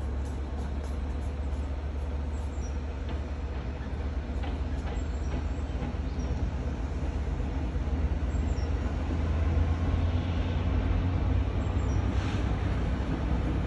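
Low, steady rumble of a train on the railway line, with faint short high squeaks now and then.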